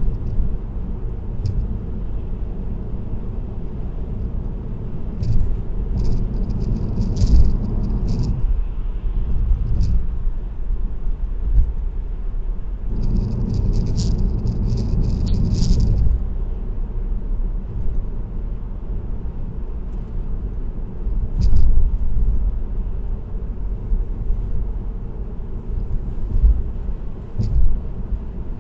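Car tyres and road noise humming steadily, heard from inside the car at expressway speed. Light clicks and rattles come in two short flurries, one several seconds in and one about halfway through, with a few single ticks later.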